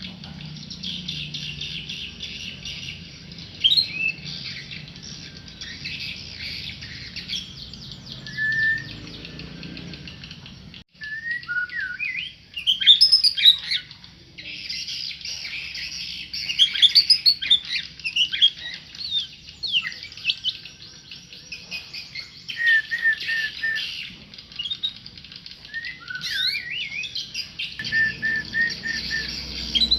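White-rumped shama (murai batu) singing: a long run of varied whistled phrases and chattering notes, with rows of quick repeated notes in the second half.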